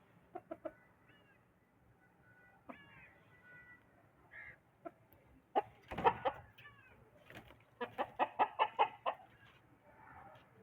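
Aseel chickens clucking. A few short calls come first, then a louder call about six seconds in, and near the end a quick run of about eight clucks.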